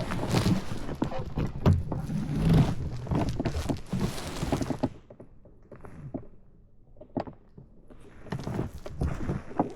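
Irregular knocks and thumps over a low rumbling noise, which die down about five seconds in, with a single sharp click, and pick up again near the end.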